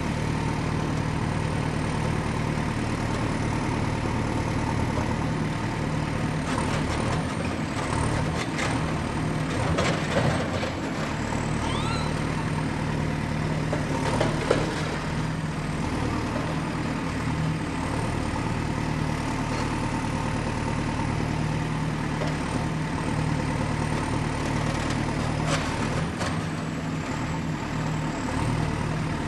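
Excavator engine running steadily at work, with scattered clanks and knocks, the loudest about ten and fourteen seconds in.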